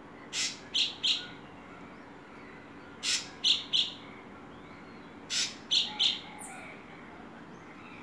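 A bird calling: three sets of three harsh notes, about two and a half seconds apart. In each set the first note is a little longer than the two quick ones that follow.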